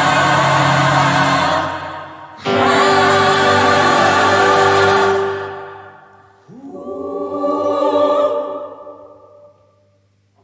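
Gospel choir singing held chords in full harmony: three chords, each sustained and then dying away, the last swelling up and fading out about nine seconds in.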